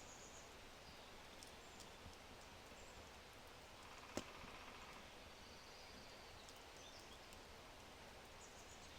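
Low oak fire crackling faintly over a steady hiss, with one sharp pop a little after four seconds in. Faint, brief bird chirps come and go.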